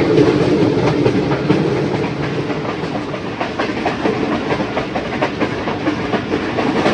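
Passenger train running, heard from inside a carriage: a steady rumble with a quick, uneven clatter of wheels over the rail joints, easing a little after about two seconds.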